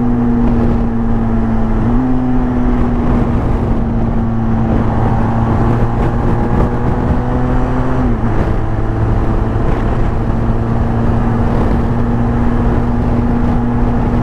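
Motorcycle engine running at a steady cruising speed under wind rush. Its pitch steps up slightly about two seconds in and drops about eight seconds in as the throttle changes through the curves.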